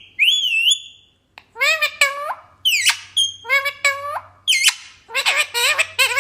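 Pet green parrot vocalizing: a warbling whistle, then about a second in a rapid string of short, chattering, speech-like calls.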